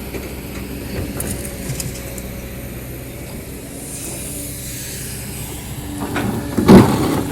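Kobelco SK200-10 hydraulic excavator running steadily under digging load in rocky hardpan. Near the end the bucket scrapes and knocks against rock in a loud clatter of several hits.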